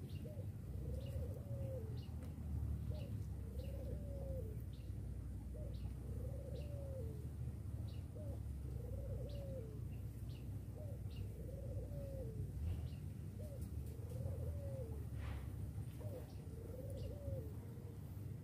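A bird repeats a low, two-part cooing call, a short note then a longer arched one, about every two seconds. Faint short high chirps of small birds are scattered through it, over a steady low rumble.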